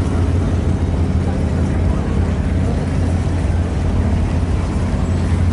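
A car engine running with a steady, deep rumble, a cruising car close by.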